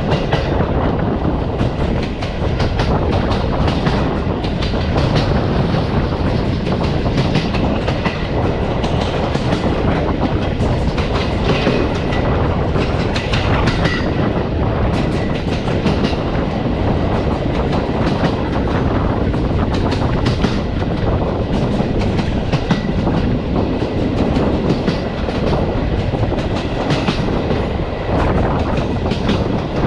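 Passenger train carriage running along the track, heard at the carriage window: a steady rumble of wheels on rail, with frequent irregular clicks and knocks from the wheels passing over the track.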